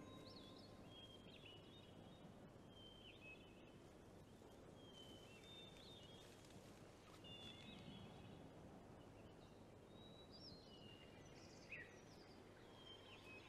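Faint outdoor ambience with small birds chirping now and then: short high chirps every second or two over a soft hiss.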